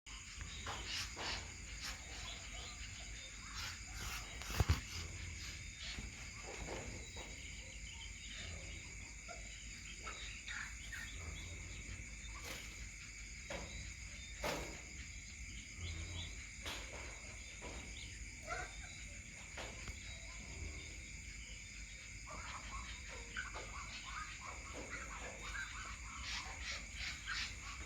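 A steady, high-pitched chorus of crickets or similar insects, with scattered light ticks and rustles and one sharp click about four and a half seconds in.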